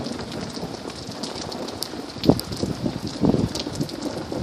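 Steady rain falling, with scattered faint drop ticks and two brief low swells about halfway through and a second later.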